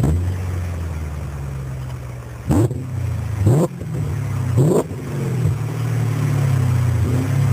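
BMW E39 530d's straight-six turbodiesel catching just after cranking and settling into idle, then given three short throttle blips about a second apart before dropping back to idle.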